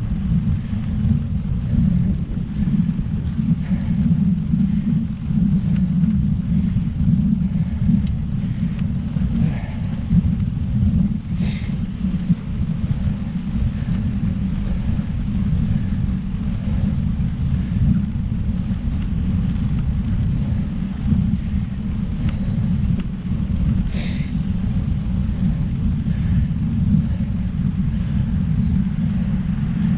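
Wind rumbling on a bike-mounted camera's microphone while riding a road bike: a steady low rumble, with two brief sharp sounds, one about eleven seconds in and another about twenty-four seconds in.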